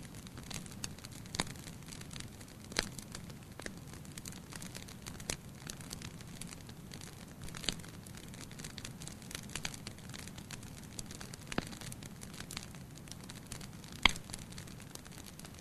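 Fire in a fireplace crackling: irregular sharp pops and snaps over a steady low hiss, with one louder pop near the end.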